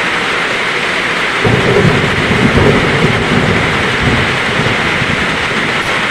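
Heavy rain falling steadily with a roll of thunder. The thunder breaks in about a second and a half in as a low rumble and dies away over the next few seconds.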